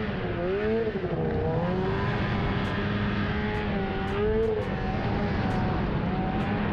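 Snowmobile engine running at speed, its pitch rising and falling as the throttle is worked, over a steady rush of noise.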